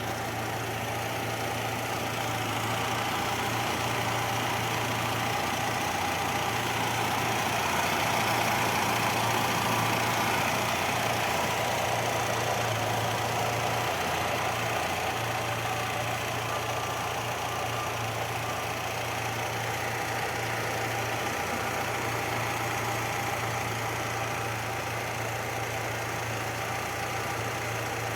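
Tofaş Doğan 1.6 i.e. fuel-injected four-cylinder engine idling steadily.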